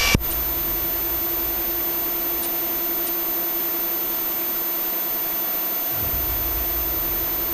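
Steady hiss with a constant low hum on a police helicopter's open intercom and radio audio, between transmissions. A low rumble comes in about six seconds in.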